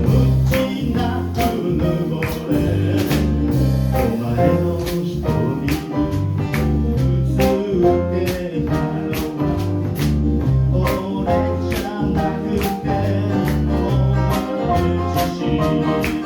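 Live jazz band playing: a bass line stepping from note to note on each beat, chords above it, and a steady beat of drum or cymbal strokes.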